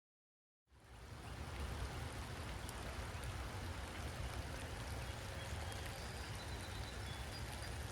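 Steady rain falling, an even hiss with a low rumble underneath, cutting in suddenly just under a second in.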